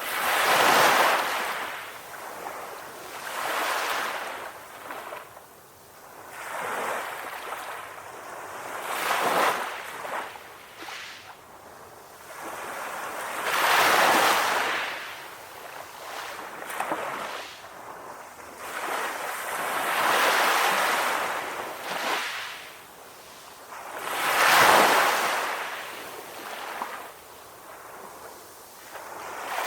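Sea waves breaking in the surf, each one swelling into a hissing wash and fading away, a new surge every three to five seconds.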